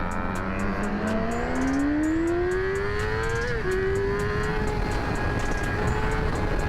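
Yamaha R6's inline-four engine accelerating under way, its pitch rising steadily, dipping briefly at an upshift about three and a half seconds in, then holding steady at cruise. Wind rushes over the microphone throughout.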